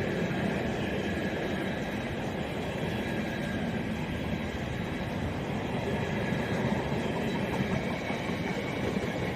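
Intermodal freight train hauled by a Class 66 diesel locomotive passing through the station: a steady rumble of wagon wheels on the rails, with faint high ringing tones above it.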